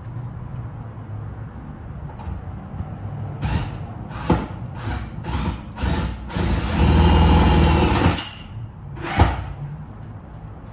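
Hands-on work noises: a run of knocks and clatters, then about two seconds of dense, harsh noise, then one sharp knock, over a steady low hum.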